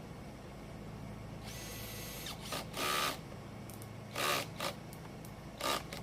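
Power screwdriver running in several short bursts, driving screws back into the electric scooter's plastic housing.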